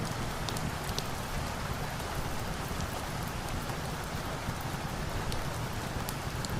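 Steady rain falling, with a low rumble under it and a scattering of short, sharp crackles from a fire.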